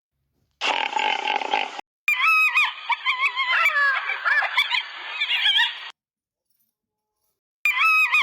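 A short harsh, noisy animal sound, then about four seconds of many birds calling over one another in rapid pitched calls that slide up and down. The calls break off into silence and start again near the end.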